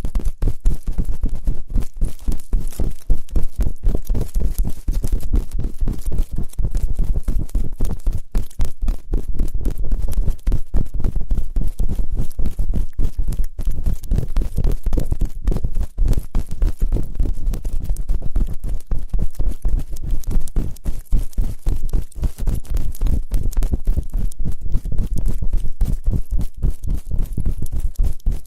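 Ear-cleaning ASMR: close, rapid scratching and rubbing against the microphone, a dense unbroken run of many small strokes with a heavy low rumble.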